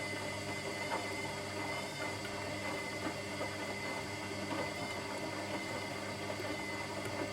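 Washing machine running: a steady motor hum with the irregular churning of the drum and its load.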